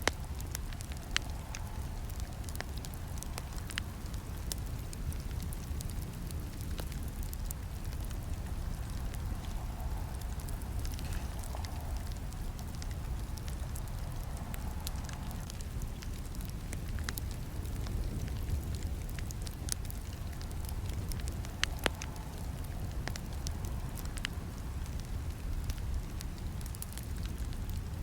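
Campfire burning steadily: a low rumble of flames under a hiss, with scattered crackles and sharp pops of burning wood throughout.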